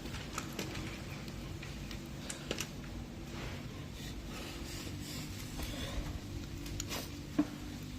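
Scattered small clicks and taps of metal parts and hand tools being handled, over a steady low hum. One sharper click comes near the end.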